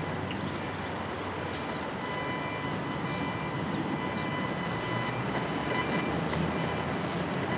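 Steady rumbling vehicle noise, like passing traffic or a train going by, with faint steady high tones above it.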